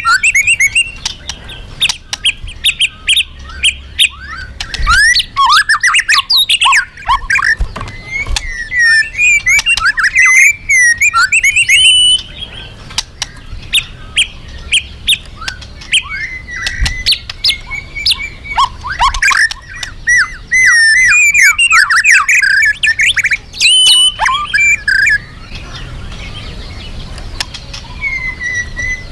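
Murai (white-rumped shama) singing loudly and continuously in full 'gacor' song: long, varied phrases of clear whistles and rapid sweeping and trilled notes with brief pauses between them, falling quieter for the last few seconds.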